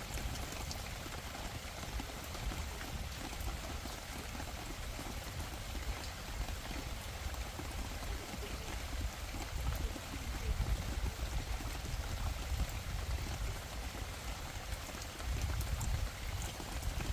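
Heavy rain falling steadily, an even hiss, with a low rumble of wind on the microphone that swells about ten seconds in and again near the end.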